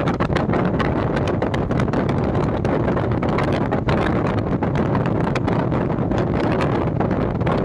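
A train running steadily, with a constant low rumble, dense rattling clicks and wind buffeting the microphone.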